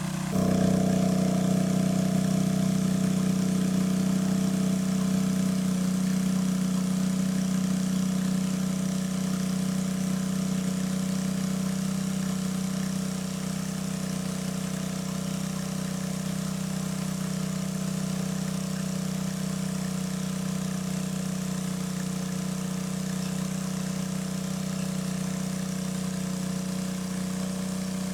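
A small engine running steadily at an even speed. It comes in abruptly just after the start and eases off slightly over the first ten seconds.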